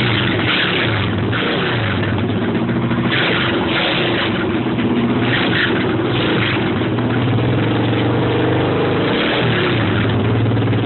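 Thumpstar pit bike's single-cylinder four-stroke engine running steadily while it warms up after a cold start, its pitch wavering a little and dipping briefly near the end.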